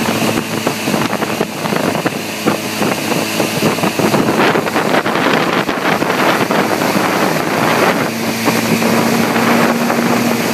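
Towing motorboat's engine running steadily under way, with wind buffeting the microphone.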